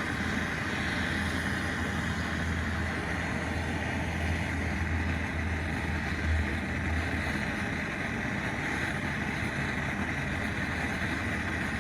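Handheld gas torch burning with a steady hiss and low rumble, heating a seized part to loosen it.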